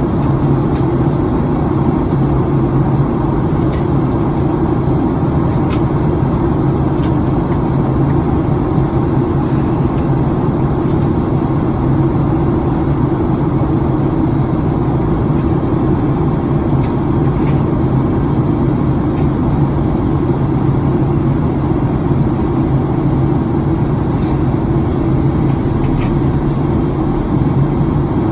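Steady cabin noise inside a Boeing 737-900ER on approach: the rush of airflow and the drone of the engines, unchanging in level and pitch.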